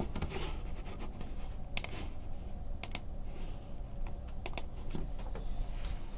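Trading cards being handled and flipped through by hand: soft sliding and rustling with a few sharp clicks.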